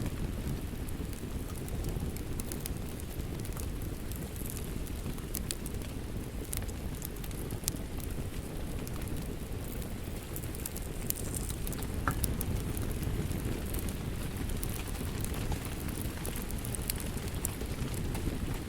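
Wood fire crackling with irregular sharp pops over a steady bed of rain.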